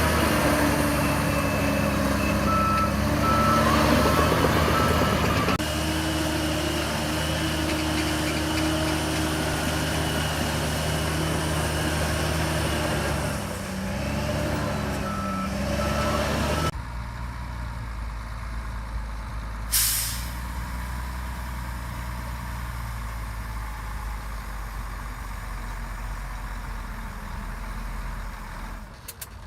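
Heavy diesel dump truck running under load while its reversing alarm beeps twice in spells. After a sudden change the engine is quieter, and about 20 seconds in there is one short hiss of the air brakes.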